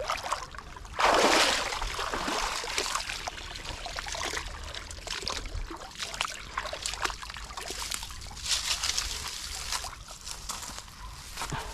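A person wading through deep water, the water splashing and sloshing around the legs with each step, loudest about a second in and again about eight and a half seconds in.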